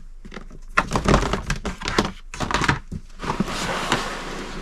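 Items being shifted around on a storage shelf: a string of irregular knocks and clunks with rustling, as things are moved aside to reach one item.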